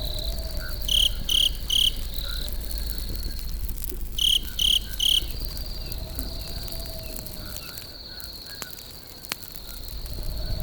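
Crickets trilling steadily at night, with a louder insect giving two sets of three sharp chirps about a second in and again past four seconds. A campfire crackles faintly underneath, with an odd small pop.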